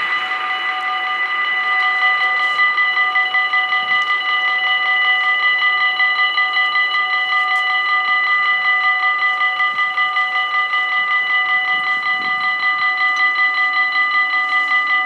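Electronic level-crossing warning bells ringing in a fast, even, repeated ding, several bells sounding together, as the noise of a just-passed train dies away at the start.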